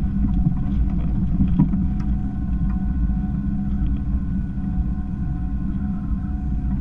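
A boat's engine runs steadily with a continuous low rumble, a few faint steady tones above it.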